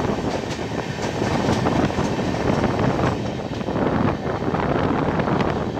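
Passenger train running at speed, heard from on board: a steady rumble of wheels on the rails with wind on the microphone, broken by scattered short clicks from the wheels.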